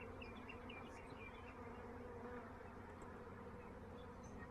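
Swarm of honey bees buzzing steadily at their new hive, a faint, even hum.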